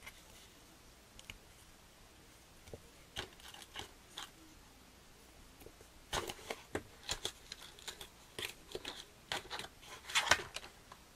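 Small plastic model kit parts being handled: scattered light clicks and brief rubbing and scratching, growing busier about halfway through.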